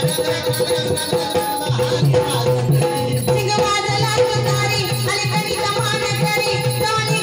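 Marathi folk devotional (jagran) song: a steady drum beat with rattling percussion, and a voice singing over it from about three seconds in.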